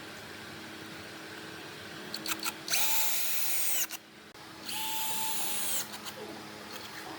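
A power drill running in two short bursts of about a second each, with a few clicks just before the first.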